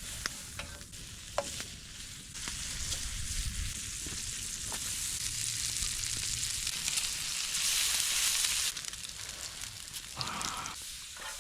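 Slabs of bacon sizzling in hot grease over campfire coals, with a few sharp pops at first. The sizzle swells a couple of seconds in, is loudest about eight seconds in, then drops back.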